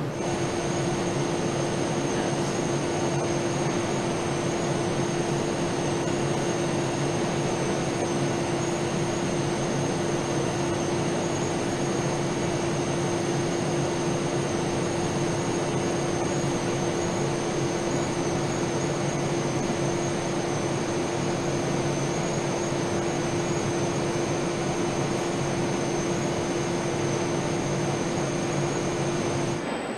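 Steady industrial machinery noise: a constant rushing with an unchanging low hum and two thin high-pitched whines, switching on and off abruptly.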